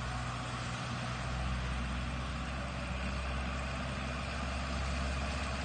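Tractor engine running steadily as it works a rotary tiller through a rice field, a constant low engine note with no change in speed.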